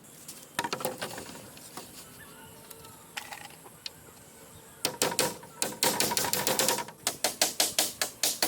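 Sharp taps and knocks of hand tools striking material. A few scattered strikes at first, then a dense run of rapid strikes about halfway through, settling into an even rhythm of about three to four blows a second near the end.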